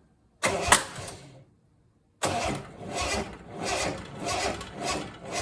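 Starter motor cranking the Triumph TR6's freshly rebuilt straight-six engine without it catching. There is a short crank with a sharp pop in it, then from about two seconds in a longer crank that rises and falls in a regular pulse. The owner takes the cranking to show a weak starter.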